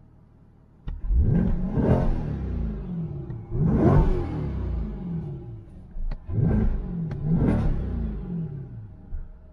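Corvette C8 Stingray's 6.2-litre V8 revved in Park, heard inside the cabin. From idle it jumps up about a second in, then the revs climb and fall back several times before settling to idle near the end.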